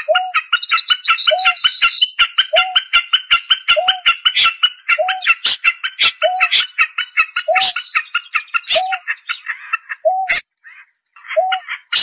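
A rapid, even series of chipping bird calls, about seven a second, with a lower hooting note repeating about once every second and a quarter; the calling breaks off briefly near the end.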